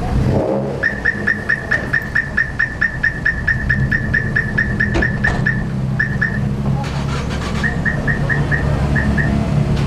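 Subaru WRX's turbocharged flat-four engine idling steadily while the car stands still. Over it, a loud, high-pitched electronic-sounding chirp repeats about five times a second for several seconds, then stops and restarts in short runs.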